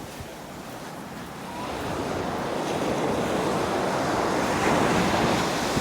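Ocean surf on a beach: a wave rolls in and breaks, the rushing growing louder from about two seconds in, with wind buffeting the microphone.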